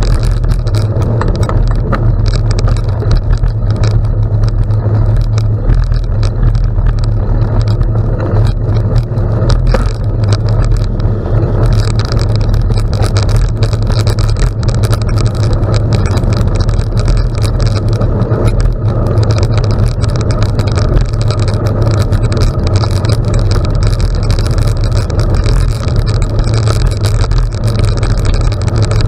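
Bicycle riding on a gravel road: steady tyre noise with fine crunching and clicking over the gravel under heavy, continuous wind rumble on the microphone.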